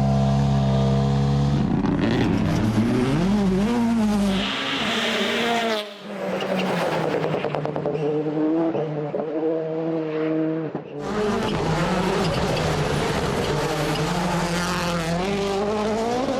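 Rally cars driven hard on a stage, engines revving up and dropping back through gear changes, in several short clips cut together.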